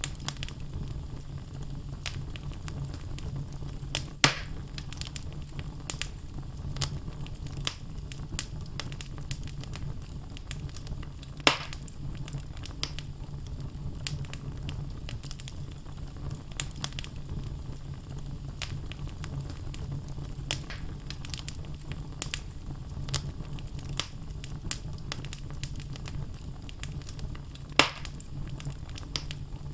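Wood fire burning in a fireplace: logs crackling with many small snaps over a steady low rumble, with three louder pops spread through.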